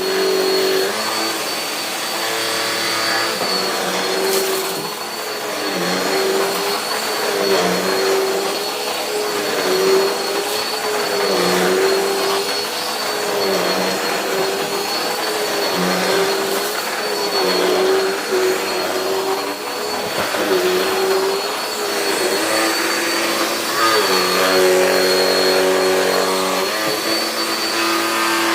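Dirt Devil Power Express upright vacuum running on carpet: a steady high whine over a lower hum that wavers up and down every second or two. Its brush roll sounds odd, which the owner puts down to an old, worn brush roll.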